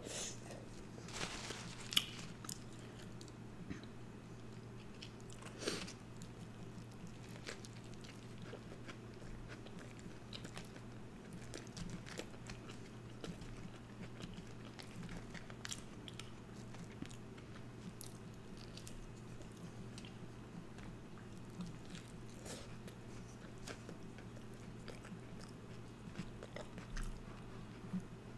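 Close-up chewing and biting of animal-style fries and a cheeseburger, with scattered wet smacks and sharp clicks, the loudest about two and six seconds in, over a steady low hum.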